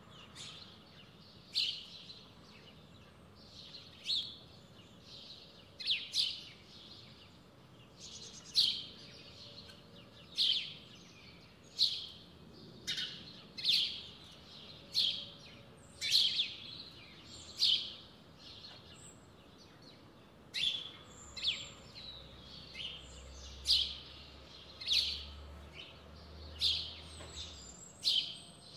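Wintering songbirds calling: short, sharp calls repeated every second or two, each dropping quickly in pitch.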